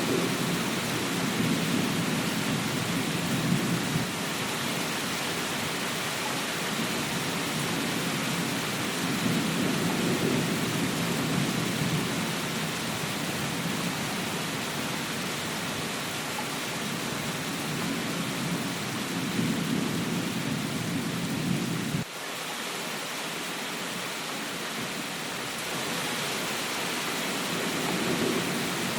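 Steady rain with low rolling thunder that swells and fades several times. About three-quarters of the way through the sound drops suddenly, the low rumble cutting out and leaving the rain.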